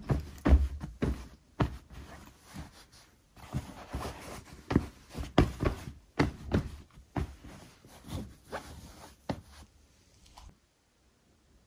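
Close-up household handling sounds: a quick, irregular run of short knocks, rustles and scrapes, as things are picked up and set down, stopping abruptly about ten and a half seconds in.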